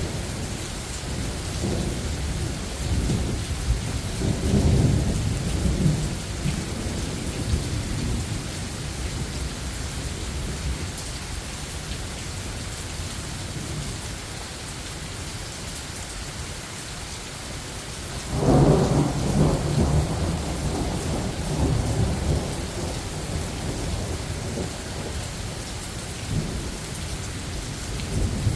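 Thunderstorm: steady rain hissing, with distant thunder rumbling a few seconds in. A louder, closer thunderclap comes about two-thirds of the way through and rolls away over several seconds.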